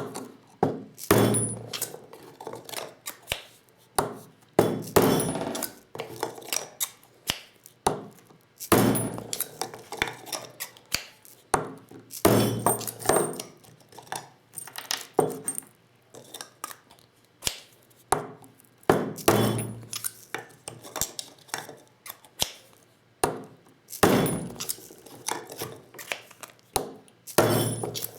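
Hammer or mallet striking a Lee Loader's steel tools on 12-gauge shotgun shells: loud knocks in clusters every three to five seconds, with lighter metallic clinks and clicks of parts and shells being handled between.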